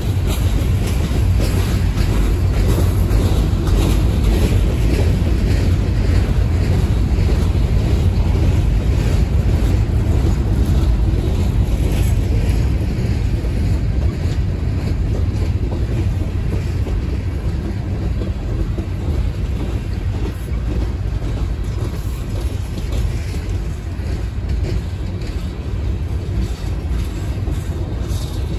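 Freight train rolling past: a steady low rumble of wheels on rail with faint scattered clicks, easing slightly in the second half, and wind on the microphone.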